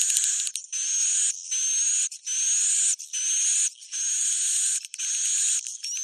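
Recorded swiftlet roosting call ('suara inap'), the lure sound played to draw swiftlets into a nesting house. It is a string of short, rising, chirping twitters over a hiss, repeated about every three-quarters of a second with brief gaps between them.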